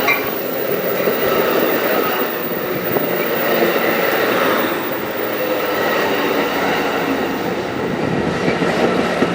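Amtrak Pacific Surfliner passenger train rolling past at close range, a steady loud noise of wheels running on the rails.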